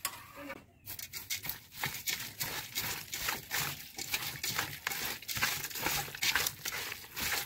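Eating sounds of a person chewing chicken biryani: a run of quick, irregular wet clicks and smacks.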